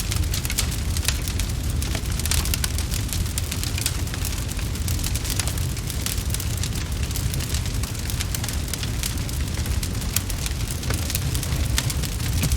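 Wood fire crackling steadily: dense, irregular pops and snaps over a low, steady rumble of flames.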